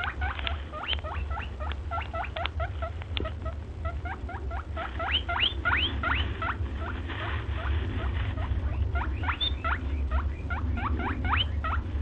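Eastern grey squirrel chirping: a rapid run of short, rising, squeaky chirps, several a second, over a steady low hum.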